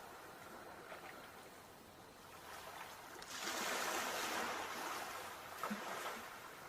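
Sea waves washing on the shore: a quieter wash, then a wave surges up a little after halfway and fades away again.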